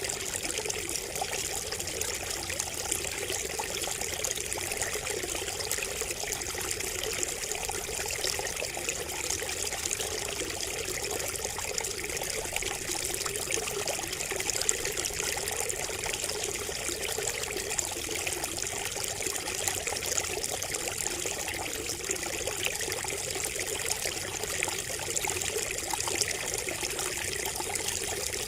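Water trickling steadily from a bamboo spout, an unbroken splashing flow.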